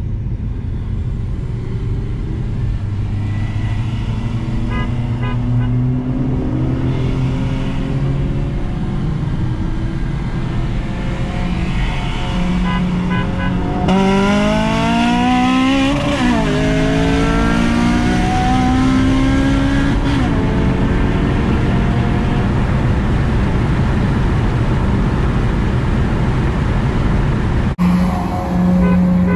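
Car engine pulling hard under full throttle, its pitch climbing steeply from about halfway in. It drops back twice in quick succession as the transmission upshifts, then climbs again. Near the end the sound cuts abruptly to a steadier engine tone.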